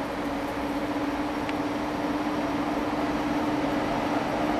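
Two ÖBB electric locomotives in double traction hauling a freight train past, a steady rumble with a constant hum running through it, growing slightly louder as the train approaches.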